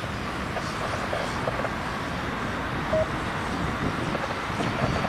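Jet airliner engines heard from a distance, a steady broad rumble and roar, with a short single beep about three seconds in.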